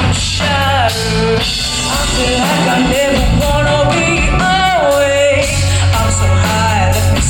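A rock band playing with a singer carrying a melody over drums and guitar.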